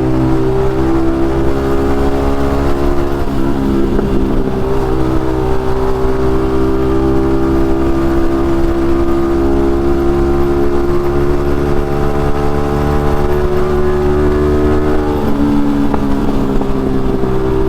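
Yamaha MT-15's single-cylinder engine through an Akrapovic aftermarket exhaust, running at a fairly steady speed on the move, with small shifts in pitch about three seconds in and again near the end. The exhaust note is echoing.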